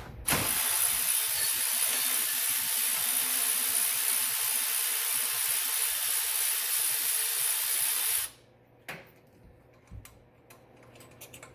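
Air ratchet running steadily for about eight seconds with a loud hiss of exhaust air, backing out a power steering pump mounting bolt, then cutting off suddenly. A few faint clicks follow.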